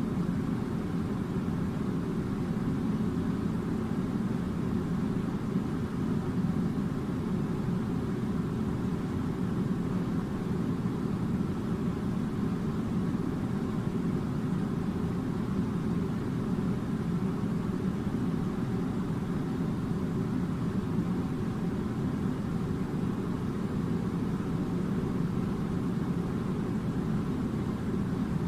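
Steady low rumbling drone, even throughout with no breaks, changes or distinct events.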